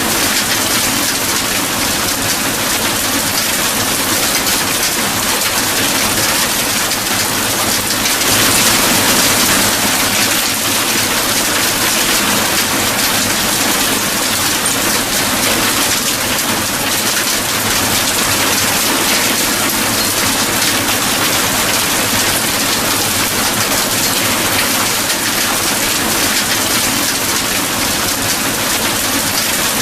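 Steady heavy rain falling on a surface, a dense even hiss that swells slightly about eight seconds in.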